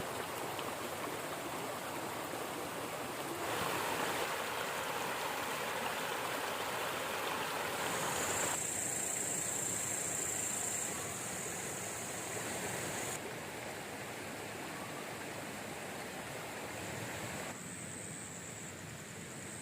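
River water rushing steadily, an even wash of noise that steps louder or softer a few times.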